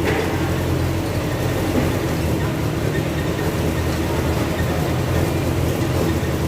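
Conventional petrol car engine idling steadily: a continuous low drone with no change in speed.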